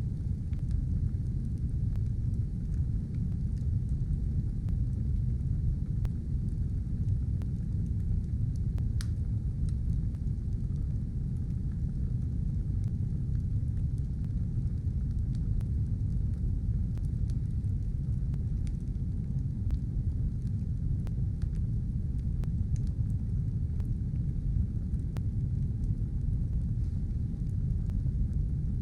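Fire burning in a stove: a steady low rumble with scattered faint crackles and pops.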